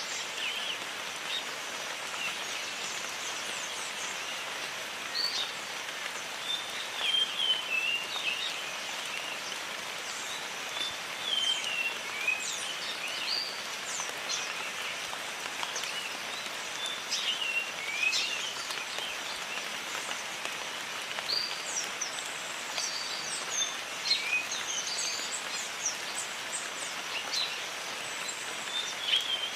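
Steady jungle rain hiss, with birds chirping and giving short whistled calls on and off, some sliding up or down in pitch.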